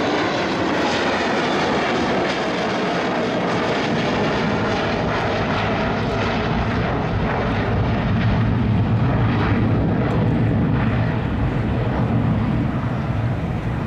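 Boeing 727 jet freighter's engines running loud as it flies its display pass: a steady rushing jet roar that swells and deepens about halfway through.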